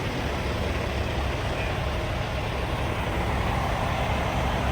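Semi truck's diesel engine running steadily with a low rumble, under a steady hiss.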